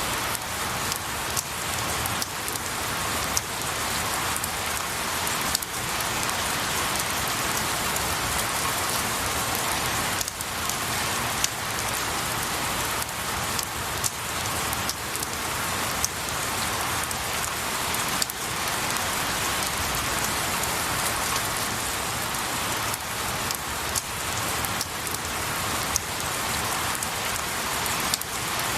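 Steady rain falling on pine needles and a tree, a constant hiss with scattered sharper drop ticks throughout.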